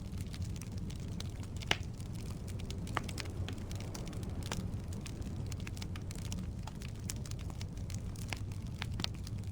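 Firewood burning in a fireplace: a steady low rumble of the flames with scattered crackles and pops, the sharpest pop a little under two seconds in and another at about three seconds.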